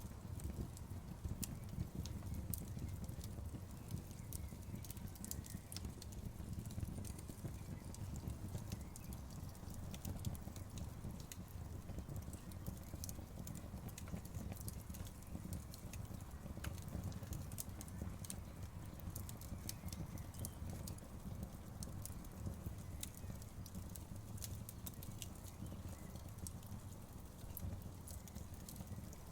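Campfire crackling: wood burning with irregular sharp pops and snaps over a steady low rush from the flames.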